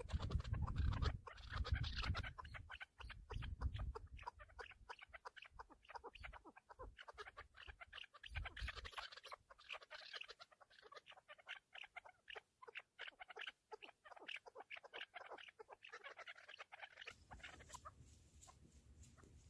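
Chukar partridges clucking in a fast run of short calls that stops about 17 seconds in.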